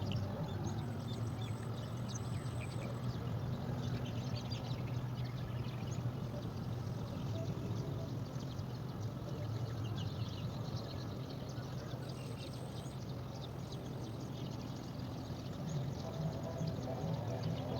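Many short, faint high bird chirps over a steady low hum.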